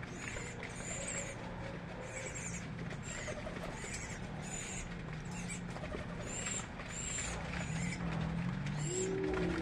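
Birds calling: short high chirps repeated about once or twice a second, with a lower whistled call joining near the end.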